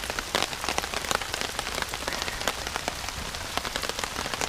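Heavy rain falling steadily, with many individual drops pattering on a surface close by.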